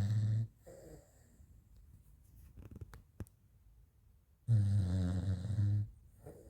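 French bulldog snoring in its sleep: a loud, drawn-out snore about four seconds apart, each followed by a softer breath, with a couple of faint clicks in between.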